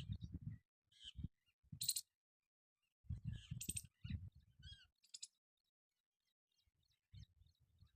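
Parrot feeding in a tree: faint bursts of quick crackling clicks as its beak works at food, with short high calls about two seconds in and again about three and a half seconds in.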